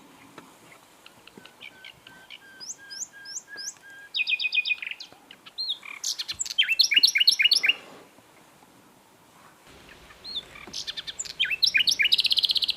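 Common nightingale singing in separate phrases of repeated whistled notes and rapid trills, with short pauses between phrases. The loudest run of fast notes comes a little past the middle, and a last rattling phrase comes near the end.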